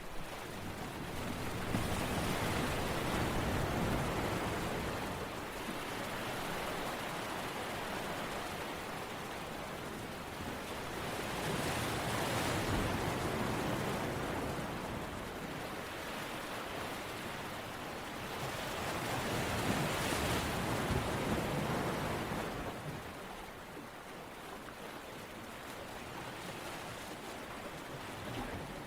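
Rushing water noise that swells and fades in slow surges about every eight seconds, in the manner of waves washing in.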